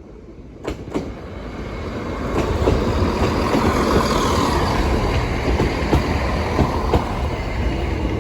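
Train passing over a level crossing close by. It grows louder over the first two or three seconds into a steady rushing noise, with scattered clicks of the wheels over rail joints.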